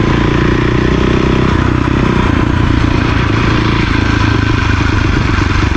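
Cannondale 440 dirt bike's single-cylinder four-stroke engine running steadily and loud while the bike is ridden.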